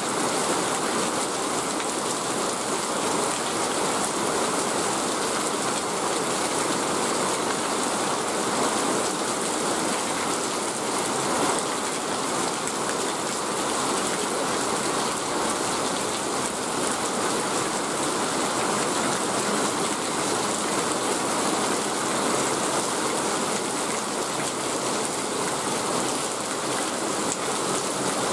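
Heavy rain falling steadily, an even, unbroken rush of downpour.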